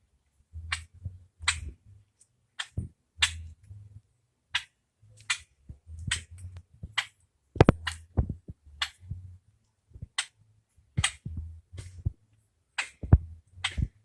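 A string of short, sharp clicks at irregular spacing, about one to two a second, with patches of low rumble between them.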